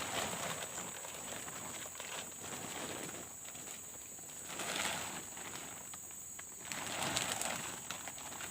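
Rustling and scraping as camping gear is handled while a tent is pitched, coming in swells every couple of seconds with small clicks. A steady high-pitched hum runs underneath.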